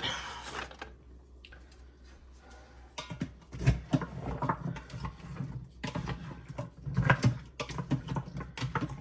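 Meatballs being stirred into sauce in a slow cooker crock: irregular knocks, clacks and squelches of the spoon and meatballs, starting about three seconds in.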